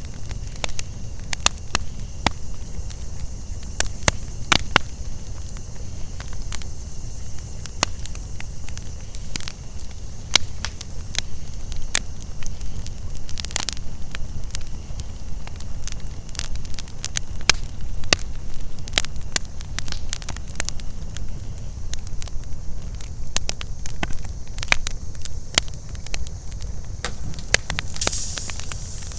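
Wood campfire crackling, with frequent irregular sharp pops, over a steady high-pitched chorus of crickets and cicadas and a low rumble.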